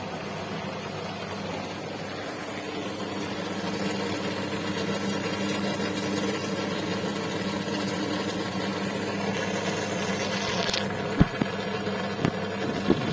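Steady electric hum of aquarium air pumps and filters, with a few sharp clicks in the last two seconds.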